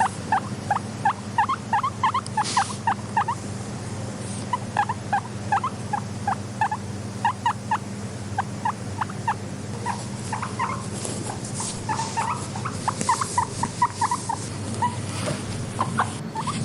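Guinea pig squeaking in runs of short, quick, rising squeaks, several a second, over a steady low hum.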